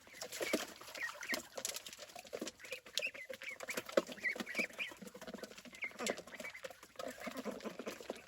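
Chickens clucking, with many short high chirps and scattered sharp clicks and knocks.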